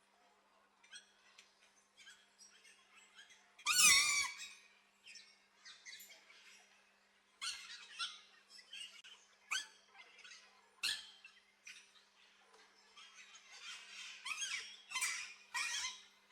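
Aviary birds calling: a scatter of short chirps and squeaks, with one loud, harsh call about four seconds in and a busier run of calls near the end.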